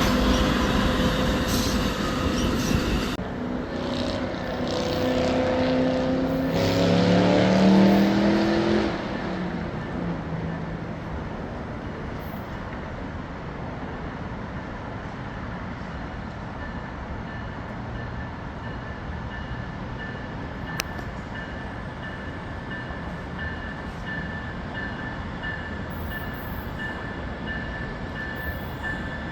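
Amtrak passenger train passing close by: a loud rumble with a pitched note that drops about six to nine seconds in, then a steady, quieter rumble as the train moves away.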